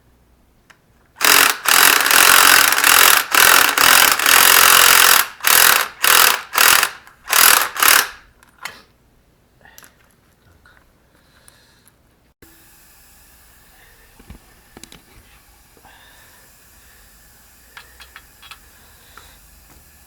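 A power tool run in a series of bursts, the trigger squeezed and released: one long run of about four seconds, then several short ones a second or less each.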